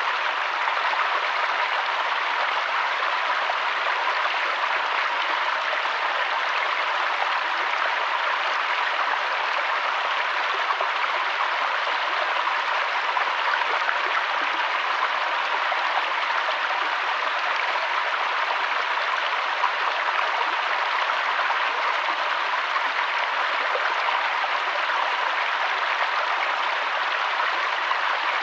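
Mountain waterfall rushing steadily, an unbroken hiss of falling water.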